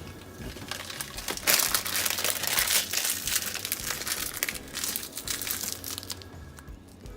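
Dry instant ramyun noodle block being broken and handled with its plastic packet: dense crinkling and crunching, busiest through the middle and dying down near the end.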